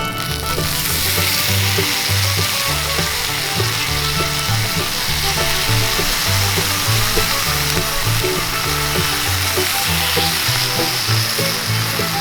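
Hamburger patties frying over a campfire with a steady sizzle. Bluegrass background music with a bouncing bass line plays underneath.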